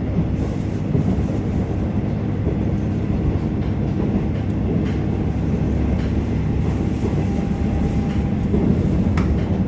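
KiHa 47 diesel railcar running on the line, heard inside the passenger car: a steady low rumble of the diesel engine and the wheels on the rails, with a few faint ticks.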